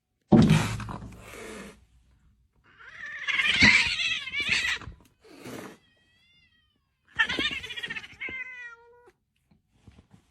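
Cat meowing several times: a sharp first call, then two long, wavering meows, the last one trailing down in pitch.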